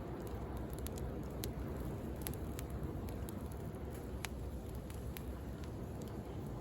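Wood bonfire crackling, with irregular sharp pops, over the steady low wash of sea waves.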